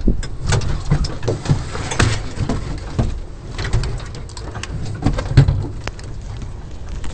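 Inside a Studebaker rally car, the engine runs low and rough with irregular heavy knocks and clatters, the sound the uploader puts down to a breaking crankshaft.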